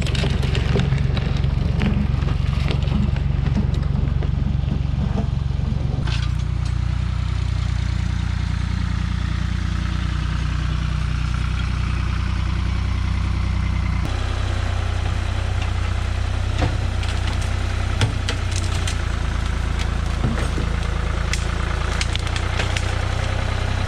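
Farm tractor engine running steadily, its note shifting about six seconds in and again about halfway through, with scattered sharp cracks over it.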